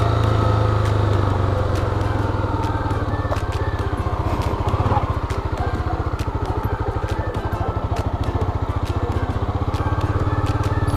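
Honda CB300R's single-cylinder engine running slowly as the motorcycle rides along a rough dirt track. From about two seconds in the engine settles into an even pulsing beat, with scattered small clicks over it.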